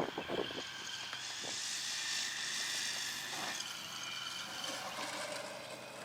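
Radio-controlled pattern aerobatics model aeroplane flying past, its propeller and motor sound swelling to a peak about two seconds in and then slowly fading. A few short knocks come at the very start.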